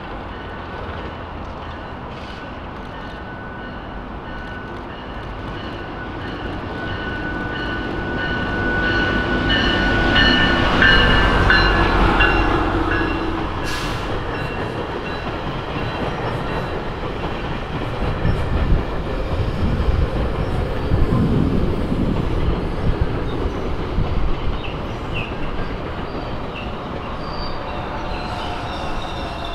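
GO Transit bilevel commuter train rolling past, cab car leading. The wheel rumble builds to its loudest about ten seconds in, with a thin high wheel squeal, and later a run of sharp clacks from the wheels as the coaches go by.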